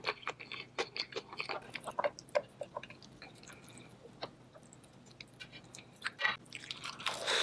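Close-miked chewing of a mouthful of spicy noodles: quick, wet mouth clicks, busy for the first couple of seconds and quieter in the middle. It gets louder again near the end.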